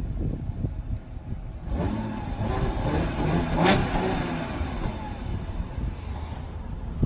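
A 2014 Audi A7 Quattro on its stock exhaust, idling from a cold start, with one rev about two seconds in that peaks and falls back to idle. The exhaust note is quiet.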